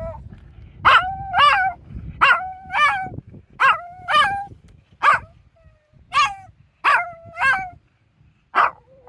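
A dog giving high, yowling barks, mostly in pairs about half a second apart, about a dozen in all.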